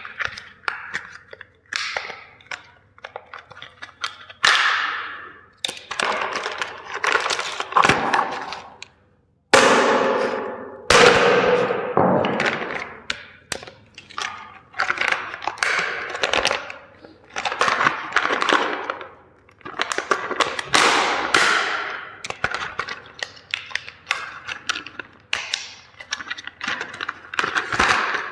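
Plastic toys being crushed: a rapid, uneven series of sharp cracks, snaps and crunching of breaking plastic, with short pauses between bursts.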